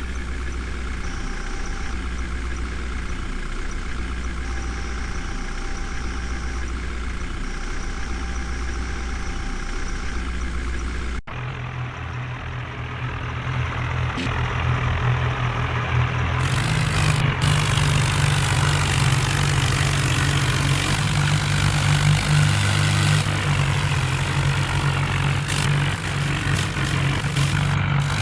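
Heavy diesel engines running: first a steady idle. After an abrupt cut about 11 seconds in, a louder engine takes over and works harder from about 16 seconds on.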